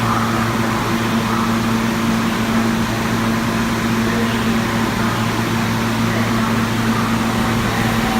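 Steady hum and noisy rush inside a New York City subway car, with a constant low drone.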